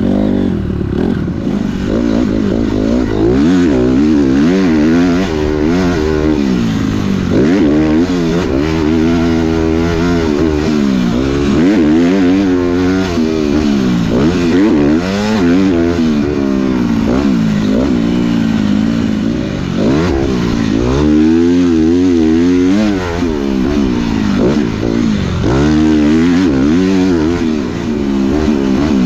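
Dirt bike engine being ridden hard, its pitch rising and falling over and over as the throttle opens and closes, every second or two.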